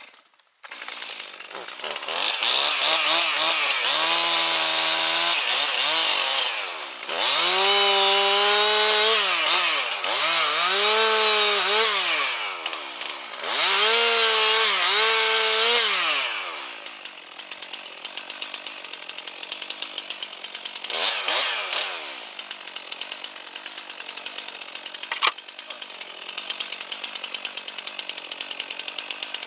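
Gas chainsaw revved in four long bursts, its pitch sagging and recovering as it bites into wood, then dropping to a steady idle with one short rev about two-thirds of the way through.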